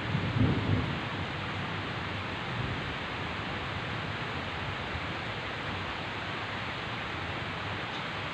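Heavy rain falling in a steady hiss. A low thunder rumble fades out in the first second.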